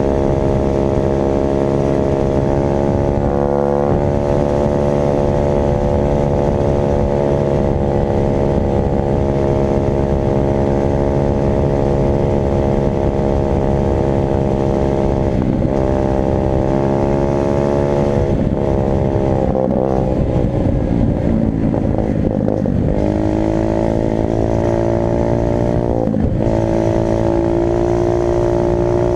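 Dirt bike engine running continuously, its pitch dropping and climbing again several times in the second half as the throttle changes.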